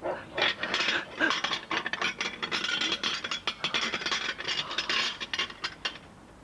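A sound effect of rapid, irregular rattling and scraping that a listener likens to rattling bones. It stops about six seconds in.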